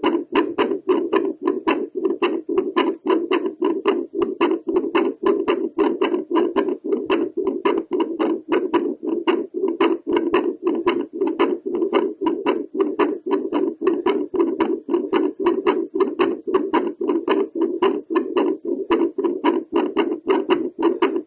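Home Doppler picking up a woman's heartbeat through the chest: a rapid, regular train of whooshing pulses with valve clicks, the rate raised by squats.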